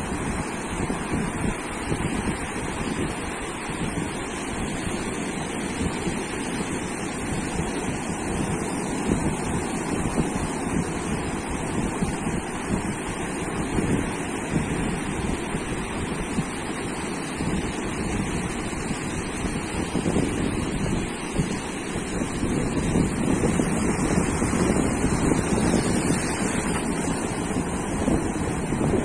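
Sea surf washing onto a sandy beach in a continuous rush, with wind buffeting the microphone; it swells a little louder near the end.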